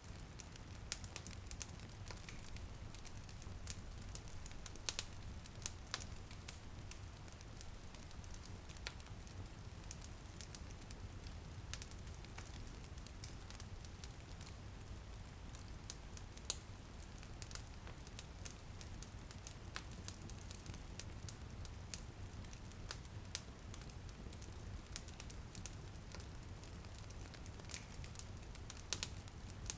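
Wood fire crackling and popping with frequent irregular snaps over a steady low rumble, with light rain in the background.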